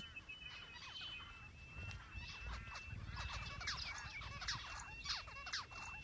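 Faint bird chirps: many short, quick notes, with a thin, high, steady tone behind them.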